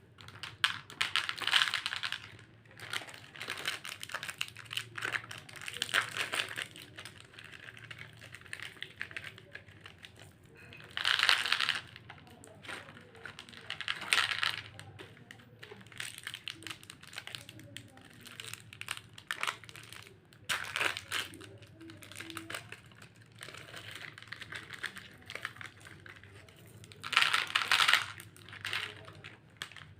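Toy doll kitchen being handled: irregular light plastic clicks and taps, with a few louder hissing bursts about a second long, near the start, at about 11 seconds and near the end.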